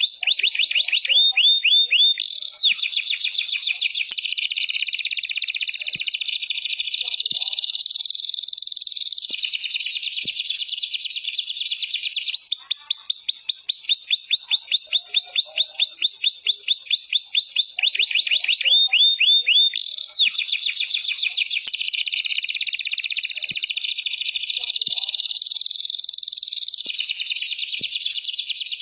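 Domestic canary singing without pause in long runs of rapid repeated trill notes, changing phrase every few seconds. The same sequence of phrases comes round again about every 18 seconds.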